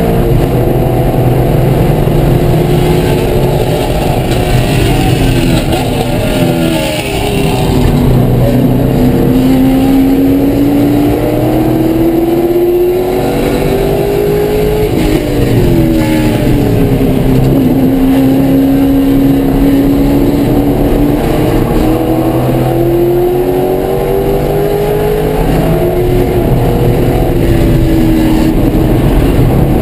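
Chevrolet Corvette C5 Z06's LS6 V8 at racing speed, heard from inside the race-car cabin. The engine note climbs slowly on long pulls and drops sharply twice, about seven and fifteen seconds in, as the car slows for corners, over a steady rush of wind and tyre noise.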